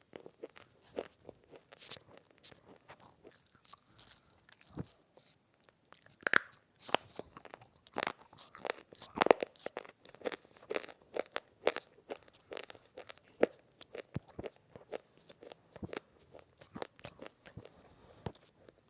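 Crunching and chewing of semi-roasted multani mitti (fuller's earth clay): irregular sharp crunches, with the loudest bites coming between about six and twelve seconds in.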